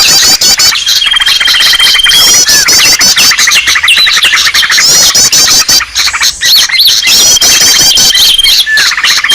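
A loud, dense chorus of small songbirds chattering, trilling and chirping together, with a held whistle twice. It is a looped bird-trapping lure recording of a noisy flock of small birds.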